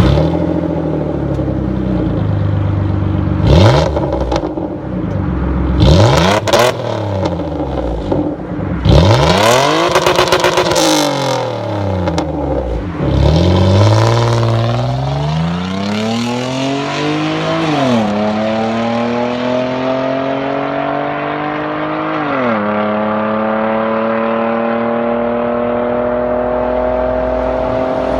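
Jaguar X-Type 3.0 V6 with a straight-piped exhaust, loud, blipped up and down several times with sharp cracks at the rev peaks, then pulling up through the revs with two sudden drops in pitch, like upshifts, and a slow climb after the second.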